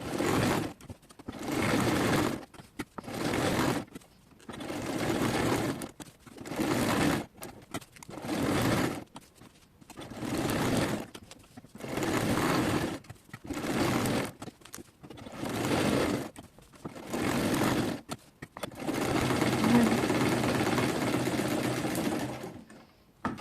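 SIGMA domestic sewing machine stitching in about a dozen short stop-start runs of a second or so each, then one longer steady run near the end.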